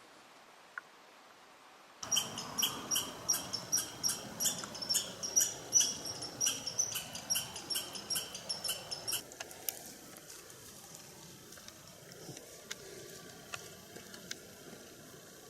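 A small animal calling in the woods: a run of short, sharp, high chirps, about two to three a second, for some seven seconds, then only faint scattered ticks.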